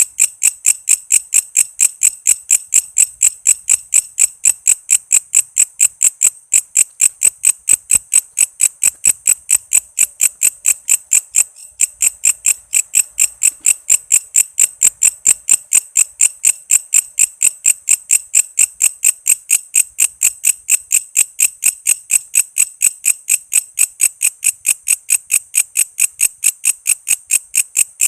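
Walang kece, a singing insect, calling in a steady, even run of short high-pitched chirps, about four a second, with one brief break about halfway through.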